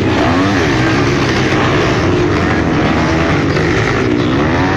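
Motocross motorcycle engines revving, their pitch repeatedly rising and falling.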